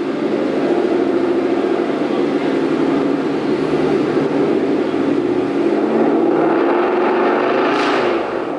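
Car engine running hard under load on a chassis dynamometer, its pitch climbing slowly and steadily through a pull, with a short dip near the end.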